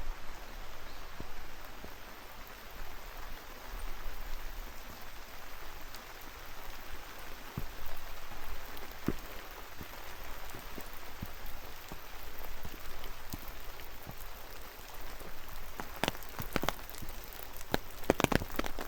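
Steady rain falling through the forest, with a cluster of louder, close drops striking near the end.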